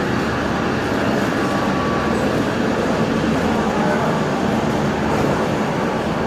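Steady rumble of a diesel passenger train standing at the platform with its engines running.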